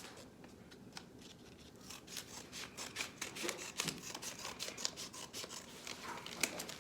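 Mailed envelope being opened by hand: paper rustling and crinkling, with many quick snips and clicks, busiest in the second half.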